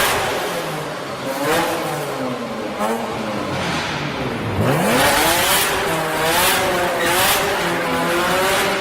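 Car engines revving, their pitch repeatedly rising and falling, with one engine note dropping low about four and a half seconds in and then climbing again.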